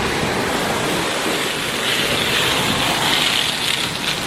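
PDQ LaserWash 4000 touchless car wash spraying water onto the car during the spot-free rinse. It is a steady spray noise that grows brighter and a little louder about two seconds in, as the spray comes closer.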